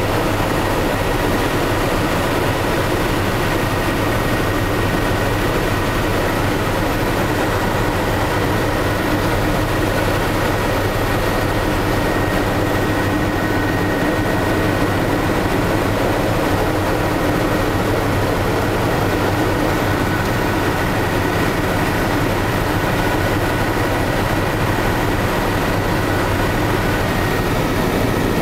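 Helicopter running steadily in flight: a dense, even engine and rotor noise with a steady high whine on top.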